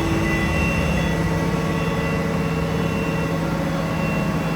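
Machine tool running with a steady hum and a few faint high tones, holding level throughout.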